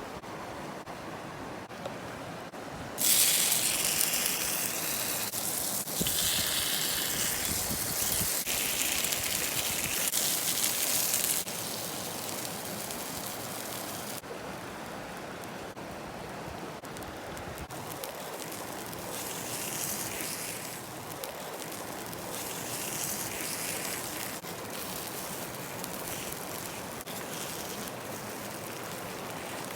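Takoyaki batter sizzling in a hot takoyaki pan over a fire: a loud hiss starts suddenly about three seconds in and runs to about eleven seconds, then softer swells of sizzling come and go over a steady rushing noise.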